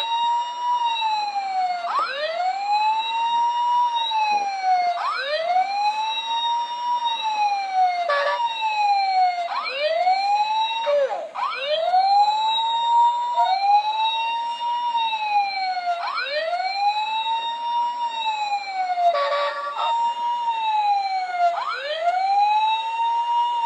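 A battery-powered toy fire engine's electronic siren wailing, rising and falling about every three seconds, with two brief interruptions by another short sound from the toy.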